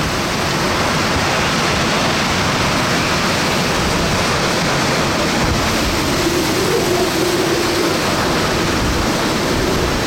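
Hurricane-force wind and driving rain making a loud, steady rush of noise. A faint held tone comes through for about two seconds past the middle.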